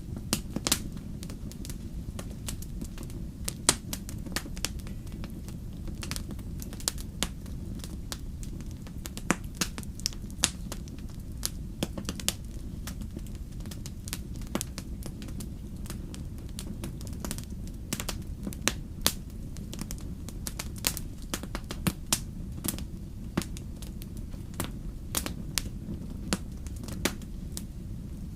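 Fireplace fire crackling: irregular sharp pops and snaps, some louder than others, over a steady low background noise.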